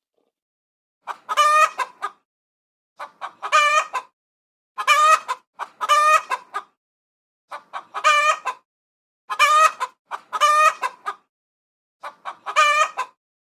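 Rooster crowing over and over, about eight cock-a-doodle-doo crows of about a second each, separated by short silent gaps.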